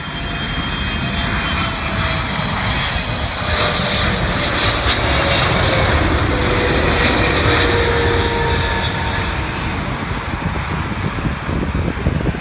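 Boeing 777-300ER's GE90 jet engines at takeoff power: a loud, steady roar with a whine over it, swelling a few seconds in and easing a little toward the end.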